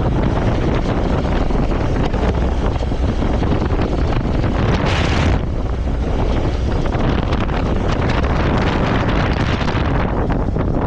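Wind buffeting the microphone of a moving motorcycle, with the engine running underneath. A brief, stronger rush of hiss comes about five seconds in.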